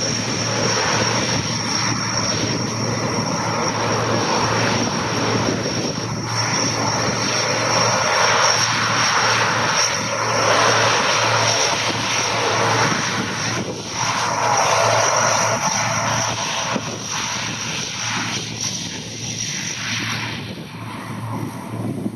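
Propeller airplane's engines running loudly in flight, a continuous roar with a steady high whine, swelling and easing several times as the plane moves.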